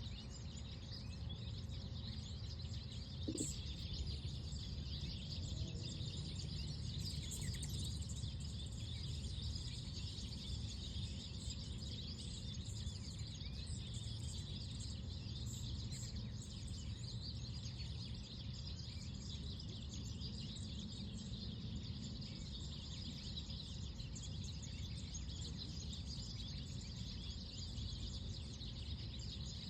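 Outdoor park ambience: a steady low rumble of wind and a high hiss, with a few small bird chirps scattered through.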